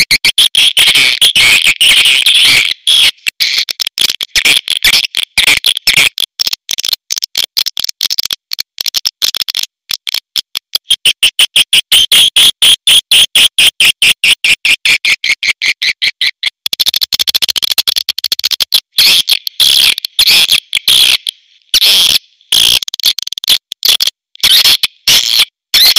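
Edible-nest swiftlet calls: a fast, dense run of high chirps and clicks, evenly paced through the middle. This is the recorded swiftlet call sound that is played in swiftlet houses to lure swiftlets in to roost and nest.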